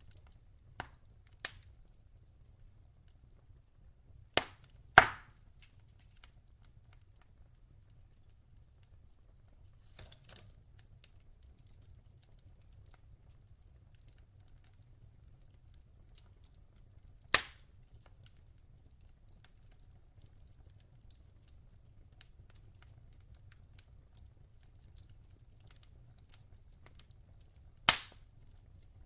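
Log fire crackling: a few sharp, isolated pops and cracks scattered over a faint low steady background, the loudest about five seconds in.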